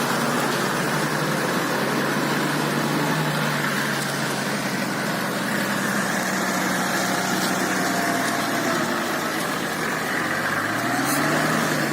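Toyota Land Cruiser engine running steadily at low speed, with a brief rise and fall in engine speed near the end.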